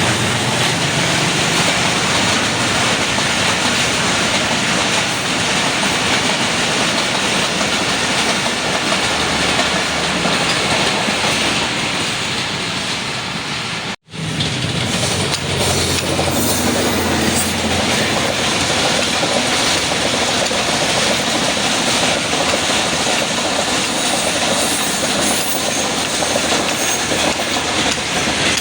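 Train running along the tracks, a dense steady noise of wheels on rails; it drops out for an instant about halfway through.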